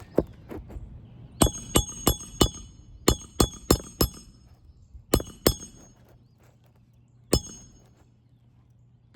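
A hammer striking a roof snake to drive a roofing nail under a shingle: about a dozen sharp, ringing metallic blows. They come as a single strike, then two quick runs of four, a pair, and one last blow. The nail is going into solid wood, which the roofer takes for a stud beneath.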